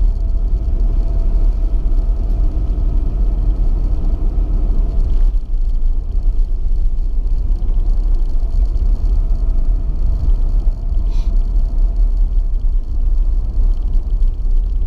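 Car cabin noise while driving at about 30 mph on snowy roads: a steady low rumble of engine and tyres, with a faint whine that drops away about five seconds in.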